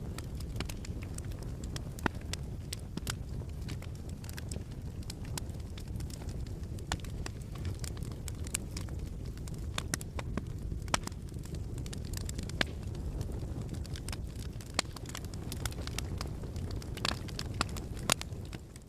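Wood fire crackling in a fireplace: a steady low rumble with frequent, irregular sharp pops and snaps.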